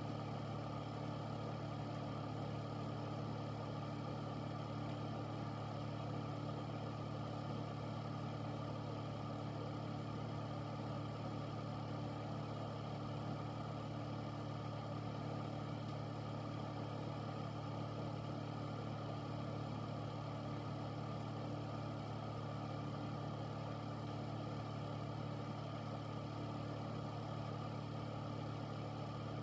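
Air purifier running steadily: an even fan whoosh over a constant low motor hum.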